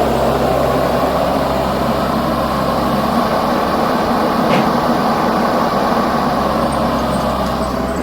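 Heavy diesel engine of a large machine or truck running steadily.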